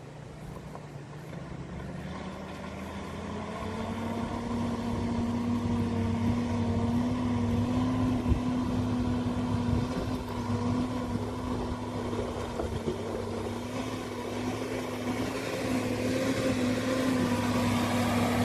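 Engine of a 4WD vehicle driving through a river crossing, growing steadily louder as it comes closer. Its pitch climbs over the first few seconds and then holds steady under load.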